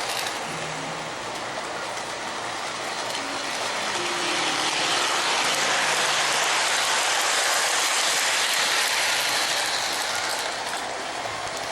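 O-gauge model train running on the layout's track, a steady clatter of wheels and motor that grows louder around the middle as it comes closest and eases off near the end.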